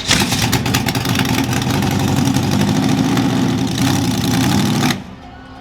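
Large monster truck engine running loud and rough with a fast pulsing exhaust note. It cuts off abruptly near the end.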